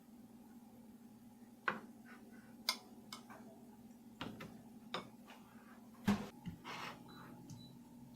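Scattered light clicks and knocks of things being handled, about seven of them at irregular intervals, the loudest about six seconds in, over a steady low hum.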